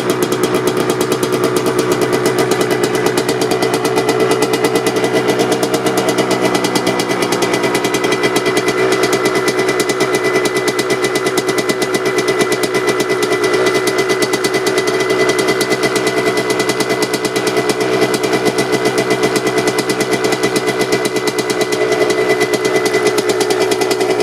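Suzuki RM 125 single-cylinder two-stroke dirt bike engine idling steadily through its stock exhaust, a fast, even train of firing pops with no revving, as it warms up after a cold start.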